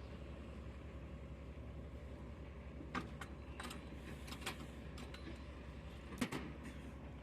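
Diesel truck engine idling with a steady low pulse, while several short clicks and knocks sound over it in the second half, the sharpest about six seconds in.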